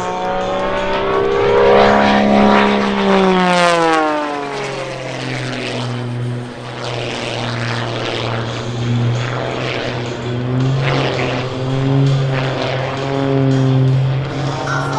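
Wolf Pitts Pro aerobatic biplane's piston engine and propeller running at high power. Its pitch drops steeply about four seconds in as it passes, then holds steady at a lower note.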